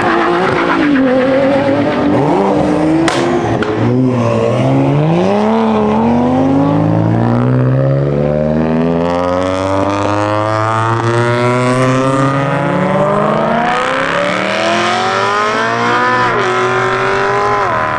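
Car engine revving: the pitch rises and falls briefly, then the revs climb steadily for about thirteen seconds before dropping sharply near the end.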